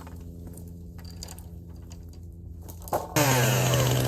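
Two-stroke chainsaw idling with a quiet, steady drone. About three seconds in, the throttle opens and the saw jumps to a much louder, steady run.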